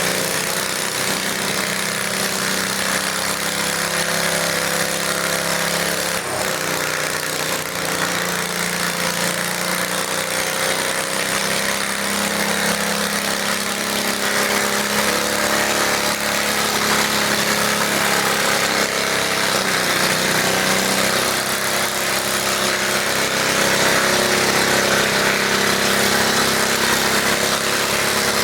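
Garden tractor engine running steadily at a fairly constant pitch, growing a little louder near the end.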